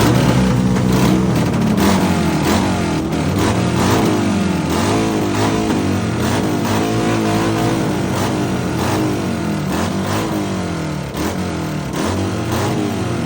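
Motorcycle engine revved over and over, its pitch rising and falling about once a second, with sharp cracks through it.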